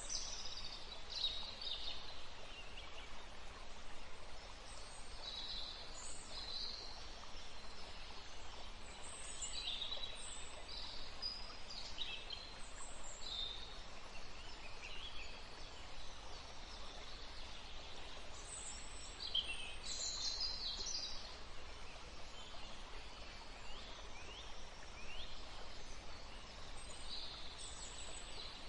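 Small birds chirping and calling in a forest, many short high calls scattered throughout, over a steady background hiss.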